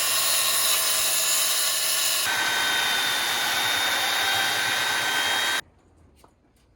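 Power tool running steadily on wood, its motor note changing about two seconds in, then cutting off suddenly near the end.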